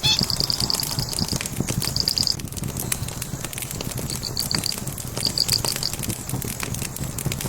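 Log fire crackling and popping, many small sharp snaps over a steady low rustle. Short runs of rapid high-pitched chirping pulses come and go several times over it.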